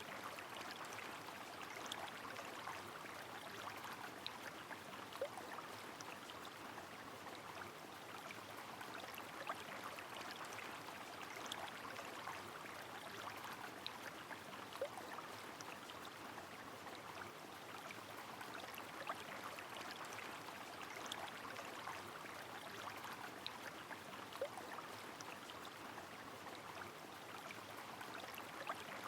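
Rain falling with a flowing river: an even, steady wash of water noise, with scattered sharp drip ticks every few seconds.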